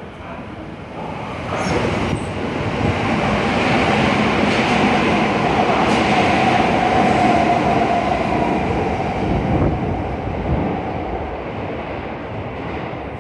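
Electric commuter train running through a station without stopping. The rumble and wheel clatter build over about four seconds, hold loudest with a steady whine as the cars pass, then fade away.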